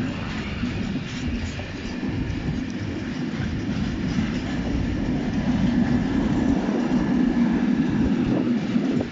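Freight train of empty flat wagons rolling past close by: a steady rumble of steel wheels on the rails.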